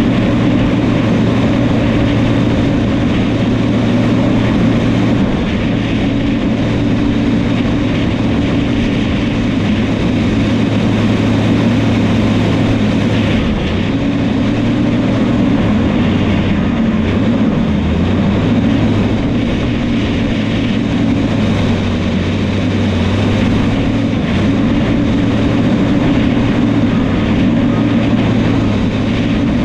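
New Holland crawler bulldozer's diesel engine running steadily under load while cutting soil, its pitch shifting slightly a few times.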